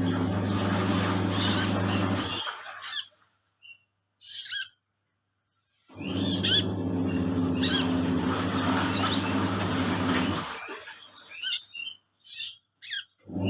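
Washing machine motor humming in two stretches, stopping for a few seconds between them, while a konin lovebird chirps and squawks over it and in the pauses. The machine's sound is being used to get the bird to sing.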